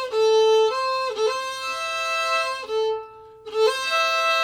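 Fiddle bowing slow, sustained double stops, two notes sounding together on much of the passage. The playing breaks off briefly about three seconds in, then resumes.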